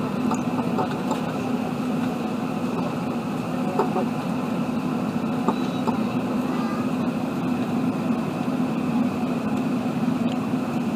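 Steady roar of an Airbus A380's engines and airflow heard inside the passenger cabin, a constant low-pitched drone with a few faint ticks.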